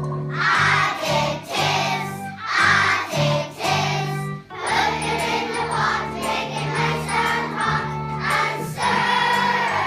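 A choir singing a song in phrases over instrumental accompaniment with a steady bass line.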